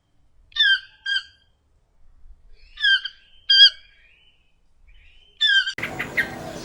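Toucan calling: short harsh calls, mostly in pairs, repeated every couple of seconds. Near the end a different, hissy recording with chirping cuts in.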